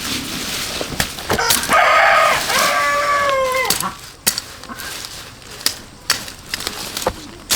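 A rooster crowing once for about two seconds, its pitch held and then falling at the end. Sharp knocks sound scattered before and after the crow.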